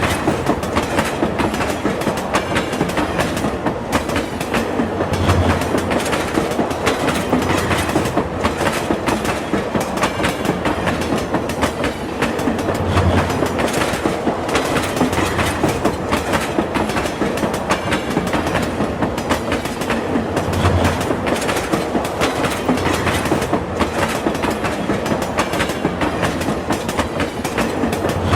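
Train running at speed, its wheels making a steady clickety-clack on the rails. A deeper thump comes roughly every seven to eight seconds.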